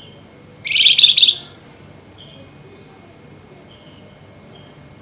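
Flamboyan songbird giving a loud, harsh, rapid chattering burst ('nyerecet') about a second in, lasting under a second, followed by a few faint, short high call notes.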